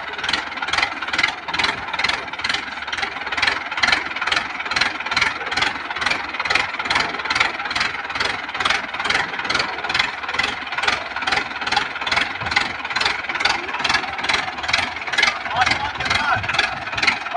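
Tractor diesel engine running steadily, with an even throb of about three pulses a second.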